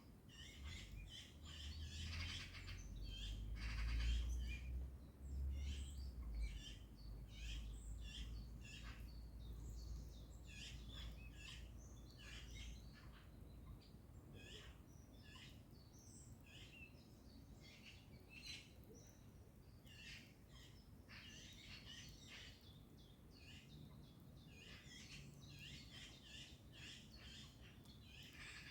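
Many small birds chirping and singing in a dense chorus of short, high calls throughout. A low rumble under the birdsong is loudest about four seconds in and dies away after about seven seconds.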